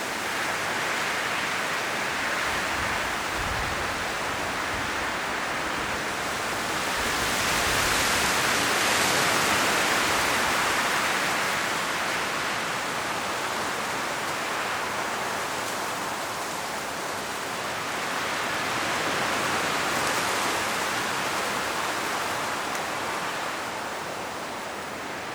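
Strong wind blowing through autumn forest trees, rustling the leaves, in steady noise that swells in gusts about a third of the way in and again past the middle.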